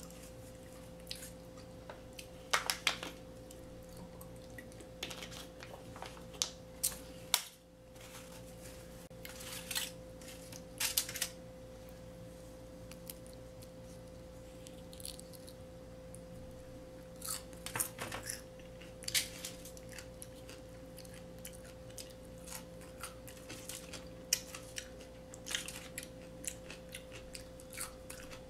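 Close-up eating of a crispy fried chicken sandwich: irregular crunching bites and chewing, in clusters with short pauses between. A steady faint hum runs underneath.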